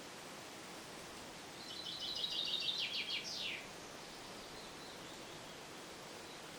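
A small songbird sings one short song, a fast trill of high repeated notes lasting about two seconds and ending in a few slower, falling notes. A steady hiss runs underneath.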